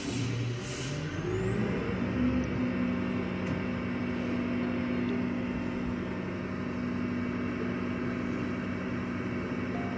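Large truck's engine revving up over the first couple of seconds, then running steadily at raised speed.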